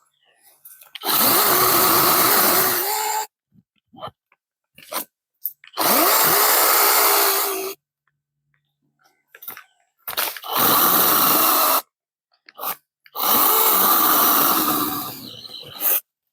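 Chainsaw run in four bursts of a couple of seconds each, its engine note rising as it is throttled up, with short quiet gaps between bursts.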